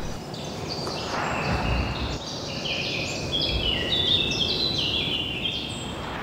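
Birds chirping: a quick run of short, high notes from about two seconds in, over a steady outdoor background hiss. There is a soft swish about a second in.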